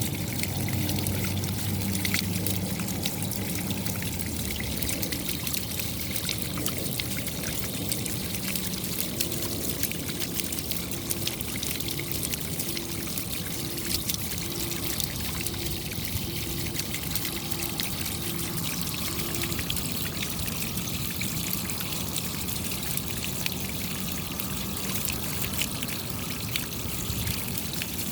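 Steady rainfall: an even hiss of falling water with many small, sharp drop impacts throughout.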